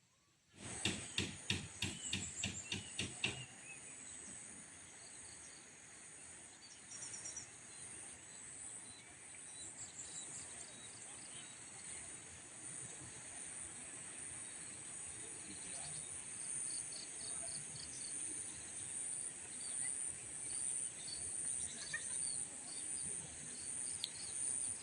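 Steady high-pitched insect chorus with scattered short bird chirps. In the first three seconds comes a quick run of about ten sharp pulses.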